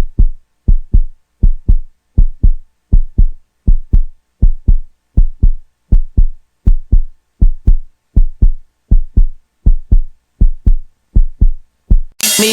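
Heartbeat sound effect: deep, dull double thumps (lub-dub) repeating steadily at about eighty beats a minute.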